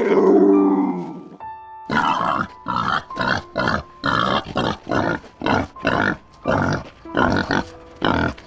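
A large animal's drawn-out call fades out in the first second, then a run of about a dozen short grunting calls follows, evenly spaced at roughly two a second, over soft background music.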